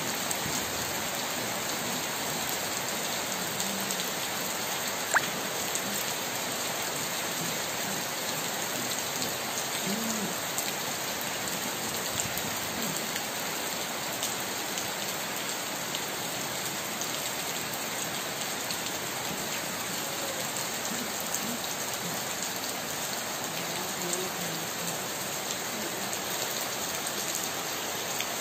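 Heavy rain falling steadily on puddled paving, gravel and garden plants, an even hiss of drops hitting water and hard ground. A single sharp click stands out about five seconds in.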